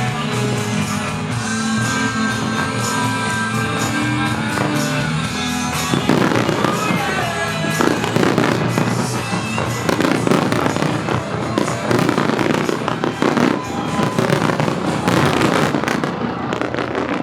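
Fireworks display music, joined about six seconds in by a dense, rapid barrage of aerial firework bursts and crackles that runs on over the music, with a few brief whistles among them.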